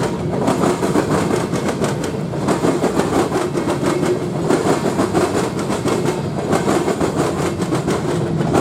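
Train passing close by, its wheels clattering steadily over the rails with a fast, continuous run of clicks.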